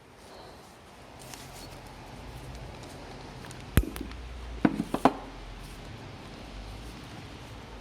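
Workshop handling noises during a car repair: a sharp knock about four seconds in, then three quick knocks about a second later, over a low steady hum.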